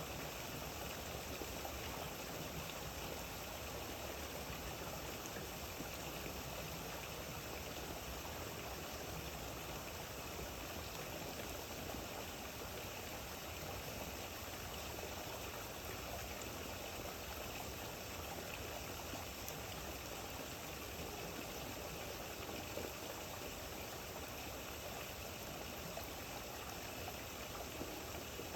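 Steady rain falling: an even, unbroken hiss of water with no single drops standing out.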